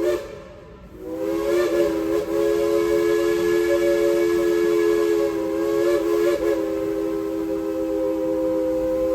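Steam whistle of the Dollywood Express, a coal-fired steam locomotive, blowing a long chord of several steady tones. It breaks off for a moment just after the start, then sounds on without pause.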